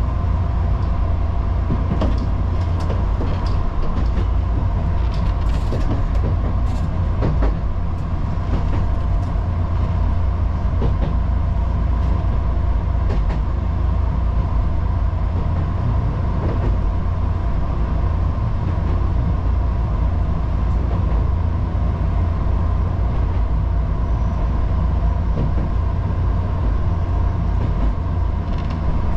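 Odakyu local electric train running, heard from inside the driver's cab: a steady low rumble of the wheels on the rails with a steady hum over it, and scattered short clicks and knocks, most of them in the first several seconds.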